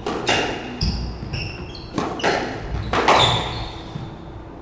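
Squash rally: several sharp cracks of the ball off racket and walls, with shoes squeaking on the court floor and footsteps thudding between shots.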